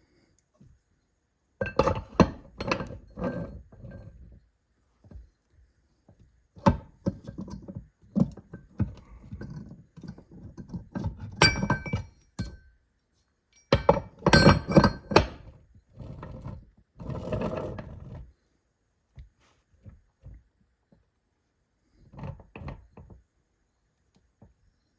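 Metal transmission parts knocking and clinking as a final drive gear is test-fitted the other way round. The sound comes in several bursts of clunks, some with a short metallic ring.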